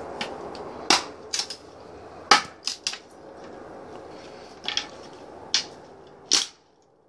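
Firewood being broken up into kindling: about eight sharp, irregularly spaced cracks.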